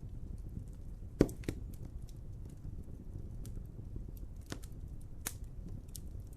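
Wood fire burning with a steady low rumble and scattered crackles and pops, the loudest pop about a second in.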